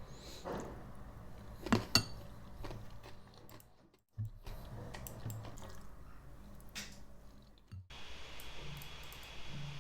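Dishes and utensils being handled, with two sharp clinks about two seconds in and lighter knocks and scrapes around them. The sound cuts off abruptly twice, and after the second cut it gives way to a steady faint hiss.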